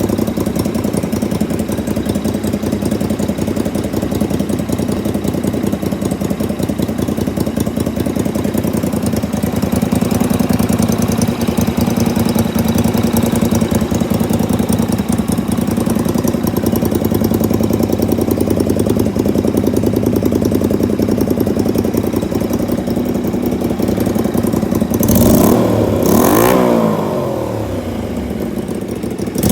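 Honda Shadow 125 V-twin motorcycle engine idling steadily through its exhaust, then revved in two quick blips near the end.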